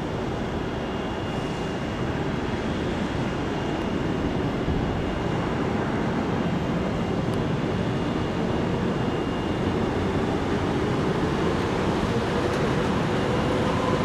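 Jet airliner engines heard from the ground: a steady rushing noise that slowly grows louder as the aircraft comes closer, with a faint whine in it.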